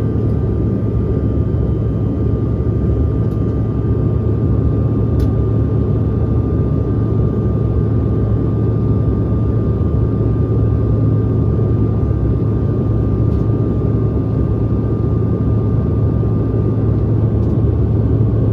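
Steady cabin drone of a Delta CRJ regional jet, the rear-mounted turbofan engines and airflow heard from inside the cabin as an even, unbroken roar with a deep hum and a faint higher tone. A faint single click about five seconds in.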